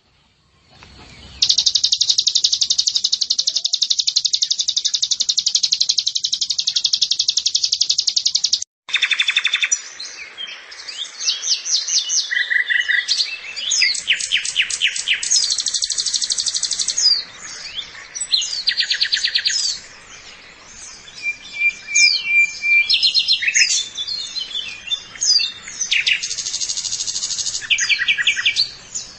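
White-eye (pleci) song, high-pitched: a dense, fast trill that runs for about seven seconds and cuts off abruptly, then a varied stream of short trills, chirps and quick whistled sweeps.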